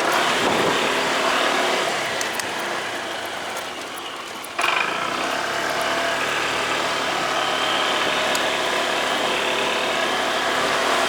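Motorcycle engine running while riding, mixed with wind and road noise. About four and a half seconds in, the sound jumps suddenly louder and stays there.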